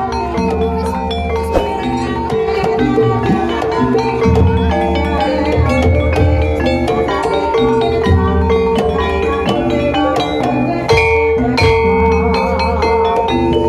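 Javanese gamelan music accompanying ebeg (kuda lumping) dancing: struck pitched metallophones and gong tones over a steady drum beat, playing continuously.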